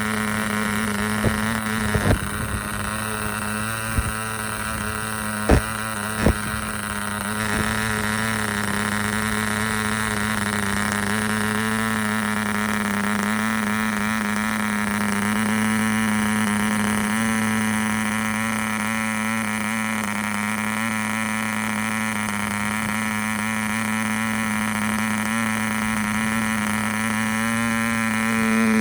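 P.M.C. Imp 0.6 c.c. piston-port model diesel engine running at a steady speed, swinging a 7x4 nylon propeller, with a constant buzzing drone. A few sharp clicks sound in the first several seconds.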